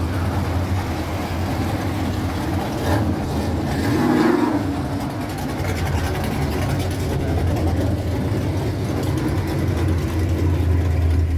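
A car engine running at idle with a steady low rumble, revved briefly about four seconds in.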